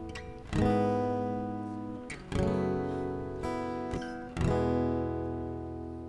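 Acoustic guitar strumming three slow chords, each left to ring and die away, the last one fading out as the worship song ends.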